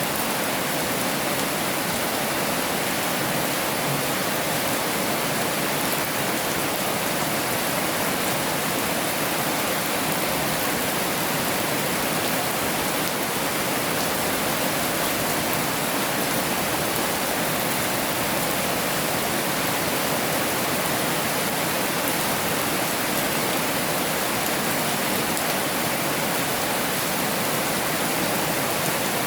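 Heavy rain falling steadily, an even hiss without breaks or thunder.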